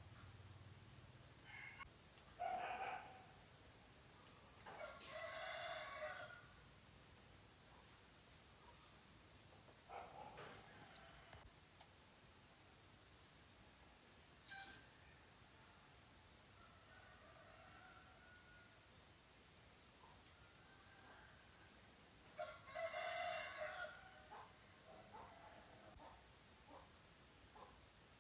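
Crickets chirping steadily in quick high pulses, about four a second, while a rooster crows several times, each crow lasting about a second.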